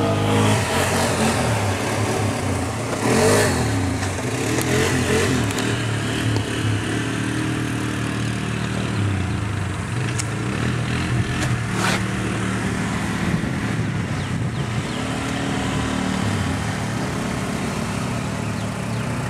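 ATV engine running, its pitch rising and falling with the throttle as the quad is ridden, with a few sharp clicks.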